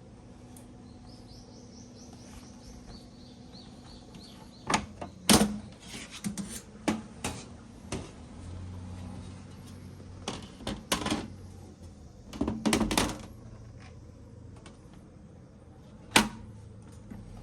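Irregular clicks and knocks in clusters, like gear being handled and set down, with one sharp knock near the end. A short run of high chirps falls in pitch in the first few seconds.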